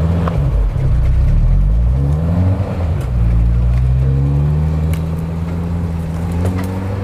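A 4x4 SUV's engine revving hard under load on a steep snowy climb. The revs rise and fall about two and a half seconds in, then hold high and steady.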